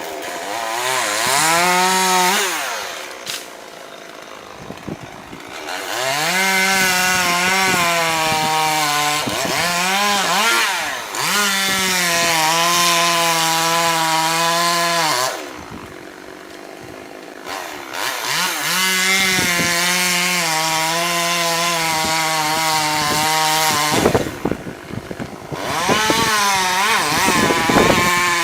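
Chainsaw revved in quick rises and falls near the start and near the end, with two long steady runs at full throttle in between, typical of cutting through wood. It drops back to a quieter idle between the runs.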